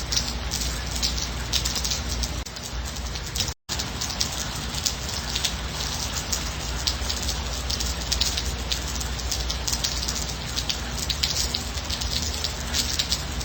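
Steady rain falling, with many separate drop hits over an even hiss. The sound cuts out for a split second about three and a half seconds in.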